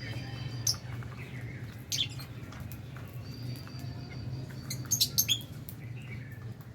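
Lovebirds chirping: thin held whistles and sharp short calls, with a cluster of loud calls about five seconds in, over a steady low hum.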